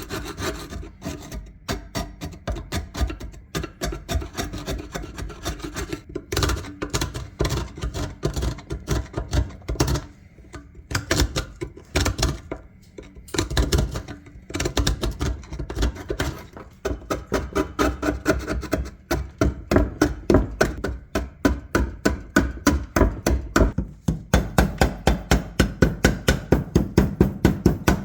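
Flat-blade screwdriver scraping and chipping rust off a rusted iron ice claw's handle and pivot, in quick repeated strokes. Near the end the strokes get louder and settle into about three a second.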